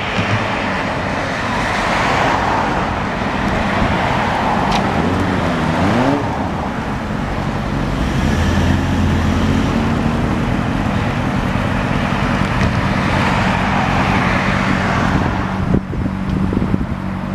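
Motorcycle engine running steadily on the road under a rushing noise, its pitch briefly dipping and rising about five seconds in.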